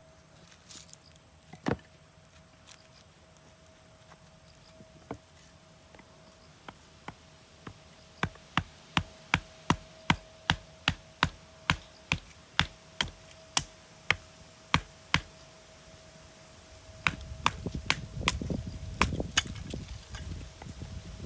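Firewood being chopped: sharp wooden knocks, a few scattered at first, then a quick regular run of about two a second, with more knocks over a low rumbling noise near the end.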